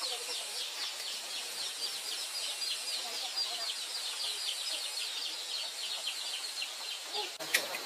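Steady, rapid high-pitched chirping, about five chirps a second, from a small wild animal, with a sharp click near the end.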